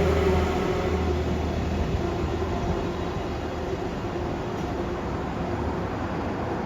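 Freight train hauled by an EH500 electric locomotive passing. A humming drone fades out over the first two seconds, leaving the steady rumble of freight wagons rolling over the rails, slowly getting quieter.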